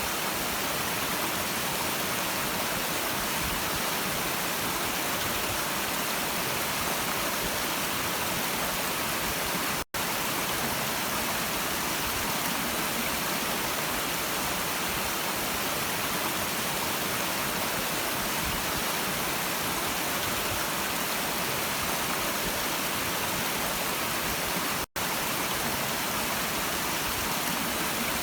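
Stream water rushing in a steady, even wash of sound, cutting out for an instant twice, about ten seconds in and again near the end.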